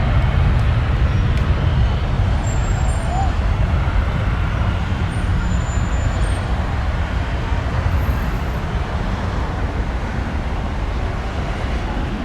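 Low, steady jet roar of a Boeing 737-700's CFM56-7B engines at takeoff power, slowly fading as the airliner climbs away.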